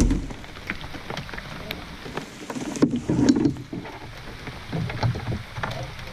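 Heavy rain falling, with scattered drops ticking sharply on the boat and water close by. A brief low sound rises out of it about three seconds in.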